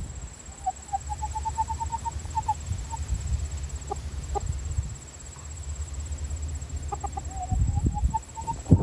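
Rooster clucking: a quick run of short clucks rising slightly in pitch, a few single clucks, then another run near the end, over a low rumble. A sharp thump comes just before the end.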